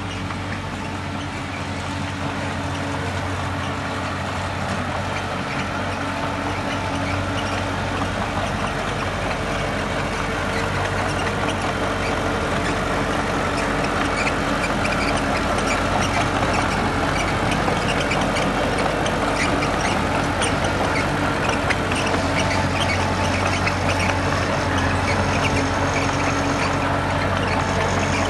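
Heavy diesel earthmoving machinery running steadily, with many short clanks and squeaks over the engine sound.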